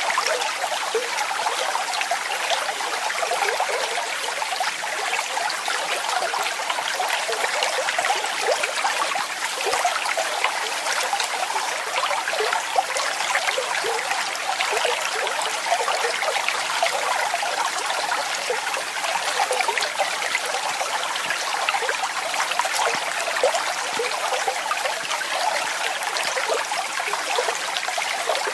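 Running water splashing steadily: a continuous light, bright rush with many small splashes and little deep rumble.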